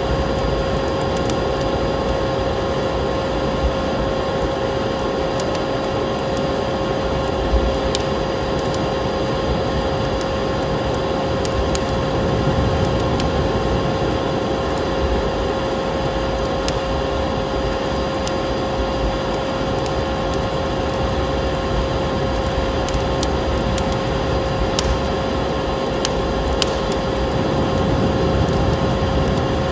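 Wood fire crackling, with scattered sharp pops and snaps over a steady rushing noise and a faint steady hum.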